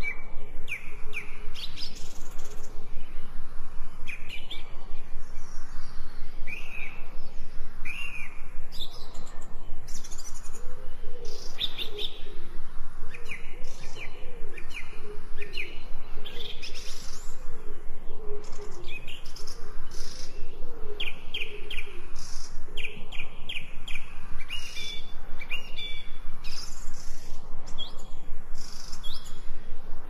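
Several small birds chirping and singing in quick, overlapping short notes and trills, with a lower wavering call joining in the middle.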